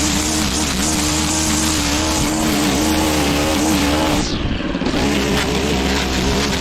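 Petrol lawn mower engine running steadily under load, its pitch wavering slightly as it cuts, with a brief dip in the hiss about two-thirds of the way through.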